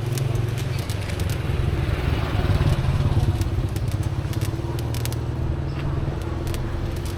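A motor running steadily with a low hum that swells a little in the middle, with scattered clicks and clatter over it.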